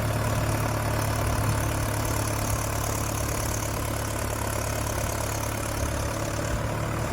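Sonalika tractor's diesel engine running steadily at a constant speed.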